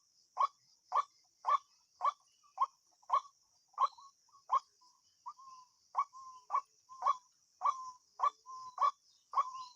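A bird calling over and over, short sharp notes just under two a second; from about halfway through, short even-pitched notes fall between the calls. A steady high, faint trill, like insects, runs underneath.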